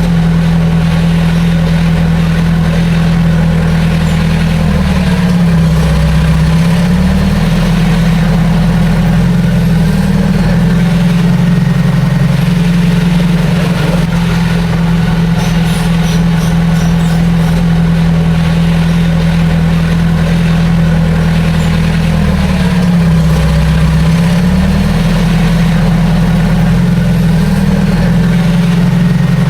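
Heavy diesel earthmoving machine engine running steadily and loudly, its pitch sagging and recovering twice, about five seconds in and again about twenty-two seconds in.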